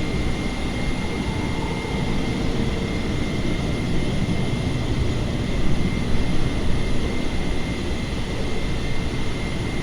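Steady jet airliner noise, an even rushing hum with a faint high steady whine.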